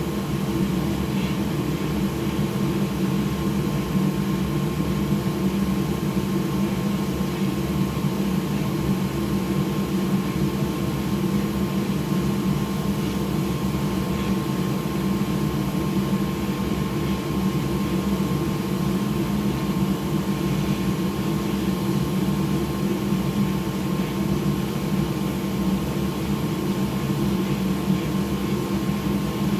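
Hot-air rework station blowing steadily while it reflows solder. It makes an even whirring rush with a faint thin tone above it.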